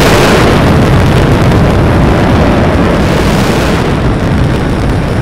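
A dense barrage of fireworks shells bursting so close together that the bursts run into one continuous loud noise, thinning near the end.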